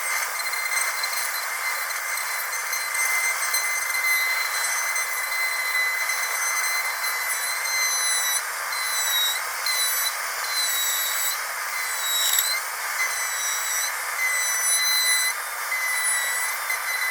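Dental drill whining steadily at a high pitch over a hiss, with several brief dips in pitch in the second half.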